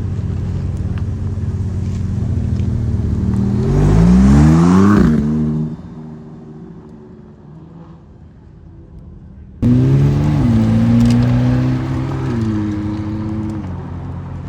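A car engine revving: the pitch climbs sharply about four seconds in, then falls away. After an abrupt cut, an engine runs loud again, its pitch dipping and then holding before it eases down near the end.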